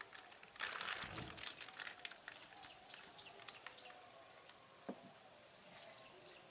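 Faint birds chirping in short, repeated calls, with a brief louder rustle about a second in and a single click near the end.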